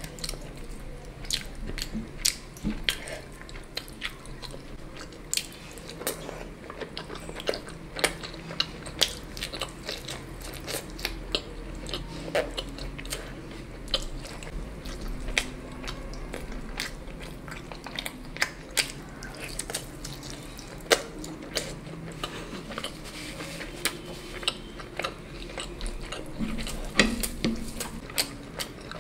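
Close-miked eating: food being bitten and chewed, with frequent irregular sharp clicks and crunches.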